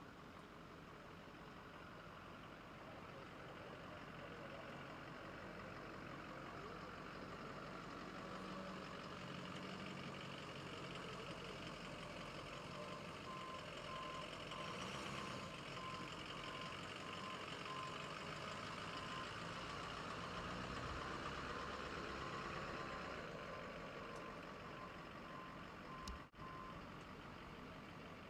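Heavy vehicle engine running at idle, with a steady series of short, evenly spaced beeps from a reversing alarm starting about halfway through and stopping near the end.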